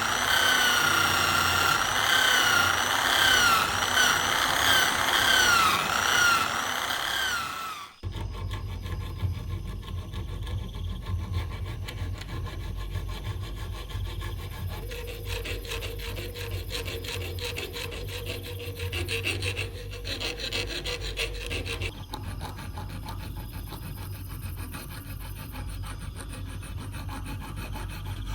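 A power tool's motor whining, its pitch dipping and recovering again and again as it is loaded against the work. It stops abruptly about eight seconds in, giving way to continuous abrasive rubbing, rasping work on metal or wood over a low hum.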